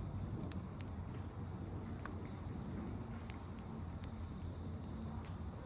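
Open wood campfire burning with a steady low rumble and scattered sharp crackles of firewood popping, roughly one a second. An insect chirps in a quick, even pulse in the background.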